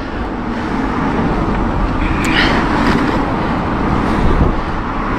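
A car coming up from behind and overtaking, a steady road noise of engine and tyres that grows louder toward the middle.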